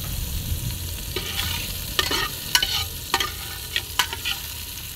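Chopped onion and garlic sizzling in oil in an aluminium pot, stirred with a spatula that scrapes and knocks against the pot half a dozen times.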